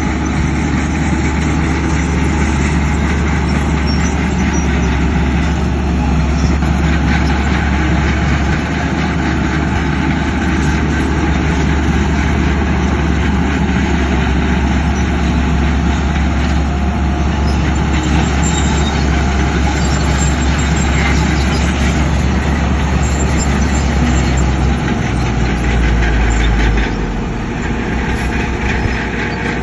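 Heavy diesel earthmoving machinery running steadily with a deep, constant rumble. The low rumble shifts and eases a little near the end.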